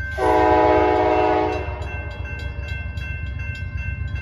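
Amtrak P42 diesel locomotive sounding one short horn blast of about a second and a half, a loud multi-note chord that cuts off cleanly. Under it are the locomotive's low diesel rumble and the steady rapid ringing of a grade-crossing bell.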